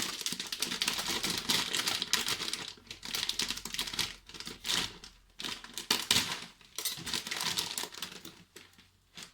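Plastic packet crinkling and rustling as it is handled, in irregular crackly bursts that grow sparser near the end.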